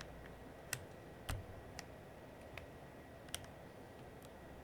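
Plastic keycaps being pressed back onto the mechanical switches of an Aula F99 Pro keyboard: about six faint, separate clicks at an uneven pace.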